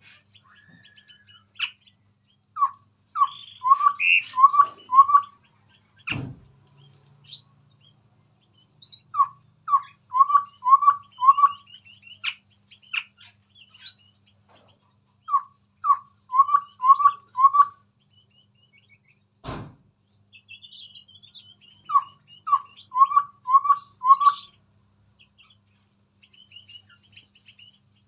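Chestnut-rumped babbler singing: a quick phrase of five or six short whistled notes, repeated about every six to seven seconds, with softer, higher chirps in between. Two sharp knocks sound, about six seconds and about twenty seconds in.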